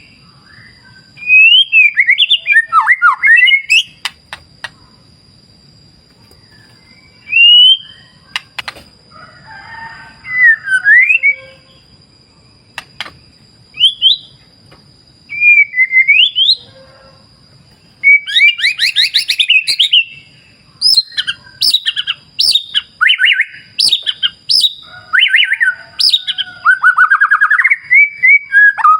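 White-rumped shama singing: loud, clear whistled phrases that glide up and down in pitch, given in separate bursts at first. From the middle on they run together into a dense stream of varied phrases and fast trills. A faint steady rush of flowing water lies underneath.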